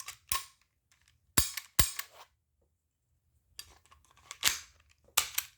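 Sharp mechanical clicks and snaps from a freshly reassembled HK VP9 BB pistol being worked by hand. Two loud snaps about half a second apart come a second and a half in, then more clusters of clicks follow later.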